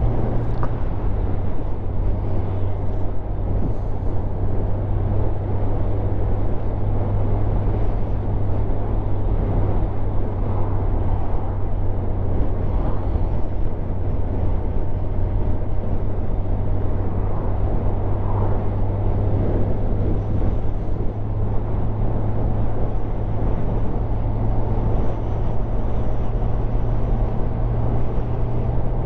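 Motorcycle engine running at a steady cruise with a constant low hum, under a wash of wind noise on the microphone.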